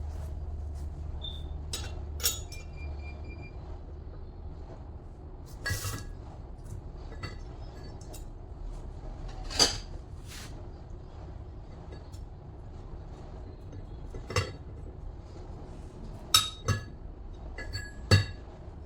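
Sharp metallic clinks and taps, about seven scattered through, each with a short ring, as metal alternator parts and tools are handled and set down, over a steady low hum.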